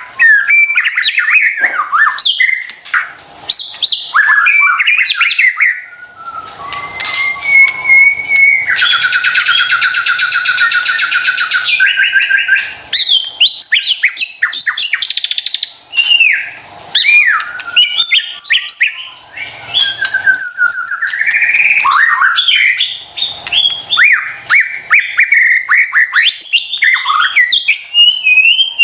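White-rumped shama singing a loud, varied song of whistled phrases that sweep up and down, broken by short pauses, with a long rapid trill about nine seconds in.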